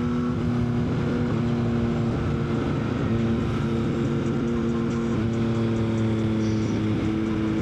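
Yamaha XSR900's three-cylinder engine running at a steady cruise, pitch holding nearly level with a few small shifts in throttle, over a steady rush of wind noise.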